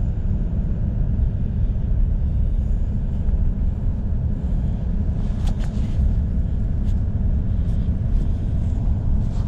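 Steady low rumble of a pickup truck heard from inside the cab while driving, with a few light clicks a little over halfway through.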